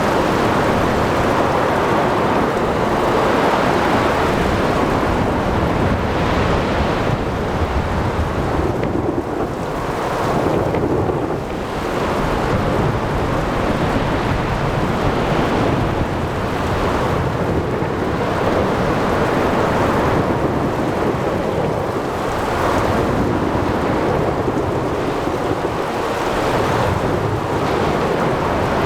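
Ocean thunderstorm: thunder rumbling, with heavy rain and waves washing in, the whole rising and falling in slow swells every few seconds.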